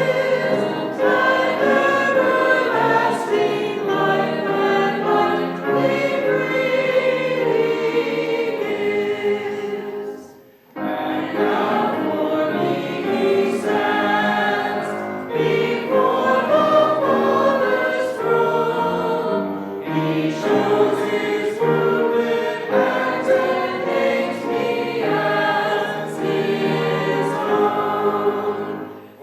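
Congregation singing a hymn together, with a brief pause between lines about ten seconds in.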